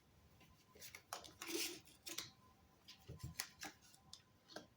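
Playing cards being dealt out for a fortune-telling spread: soft clicks and snaps as cards are pulled and set down, with a short sliding rustle about a second and a half in.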